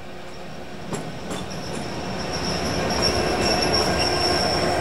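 A diesel train passing, growing louder from about a second in, with a few sharp clicks and then a thin, steady, high-pitched wheel squeal over the rumble of the wheels on the rails.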